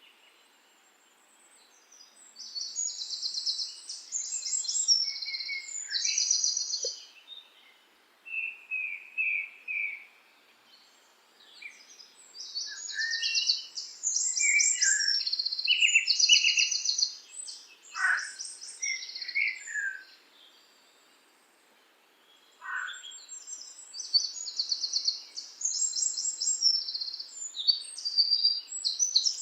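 Songbirds singing: three bouts of fast, high trilled phrases, each a few seconds long, with lower separate chirps and short pauses in between.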